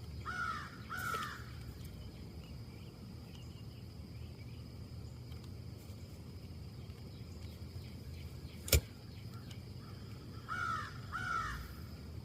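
A crow caws twice in quick succession near the start and twice again near the end, over a low steady background rumble. A single sharp click, the loudest sound, comes a few seconds before the second pair of caws.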